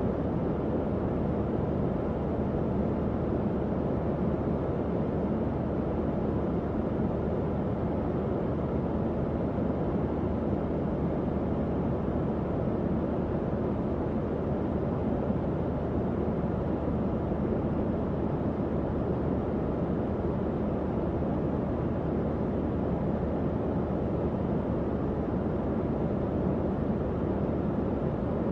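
Tower fan running steadily: an even, low-pitched rush of moving air with a faint low hum and no changes.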